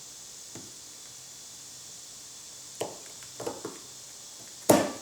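Refurbished planer feed-roll bearing parts being fitted back together by hand: a few light metallic clicks and taps, then one sharp knock near the end as a part seats.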